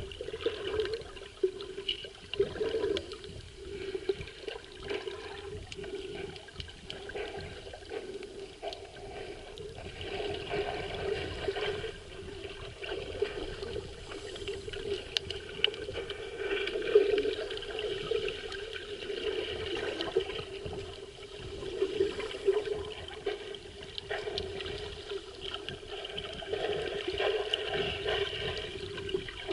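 Water sloshing and gurgling in uneven surges, heard muffled as through a camera's underwater housing while filming in the sea.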